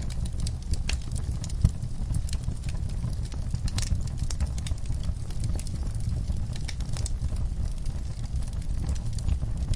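Wood fire burning in a fireplace: irregular crackles and snaps over a steady low rumble of the flames, with one sharper pop about a second and a half in.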